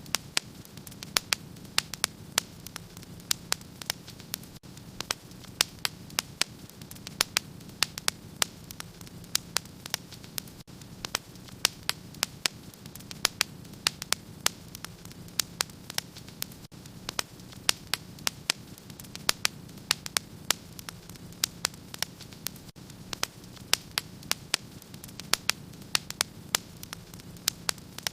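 Wood fire burning in a fireplace, crackling steadily with many sharp pops and snaps, several a second, over a soft low rush of flame.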